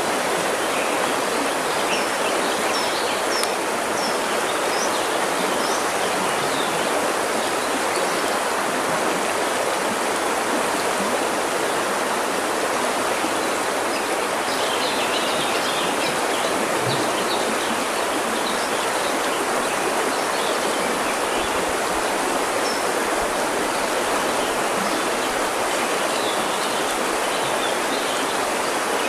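River water rushing steadily over rocks, with small birds chirping faintly in short bursts now and then.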